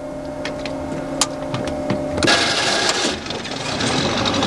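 Small boat motor running low with a few sharp ticks, then speeding up sharply about two seconds in and running on with a fast, rattling drone.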